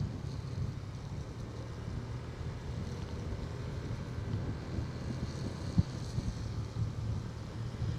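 Motorcycle engine running steadily while riding, with wind buffeting the action camera's microphone; one sharp knock about six seconds in.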